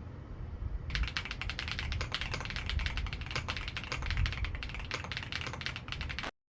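Typing on a computer keyboard: a fast, uneven run of key clicks starting about a second in and cutting off abruptly just before the end.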